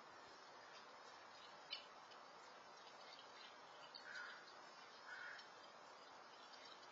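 Faint outdoor ambience through a security camera's microphone: a steady hiss, a single click a little under two seconds in, and two short bird calls about a second apart past the middle.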